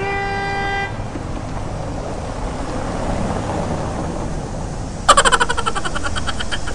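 A short horn-like beep lasting under a second at the start, then steady background noise. About five seconds in comes the loudest sound: a sudden, rapidly pulsing buzz that lasts about a second and a half.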